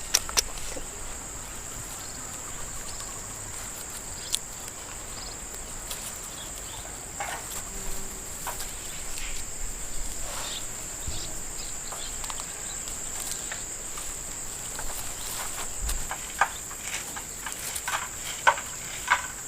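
Insects, crickets by the sound of them, keeping up a steady high-pitched drone, with scattered small clicks and knocks that come more often near the end.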